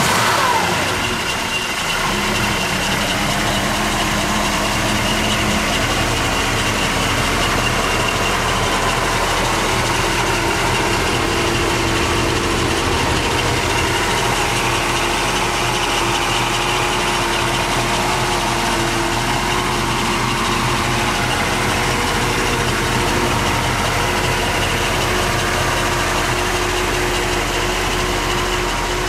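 1964 Ford Thunderbird's 390 V8 idling steadily just after being started, its speed dropping in the first second before it settles into an even idle.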